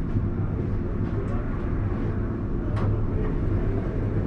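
Alstom Citadis tram rolling, heard from the driver's cab: a steady low rumble with a couple of brief high ticks, about a second and nearly three seconds in.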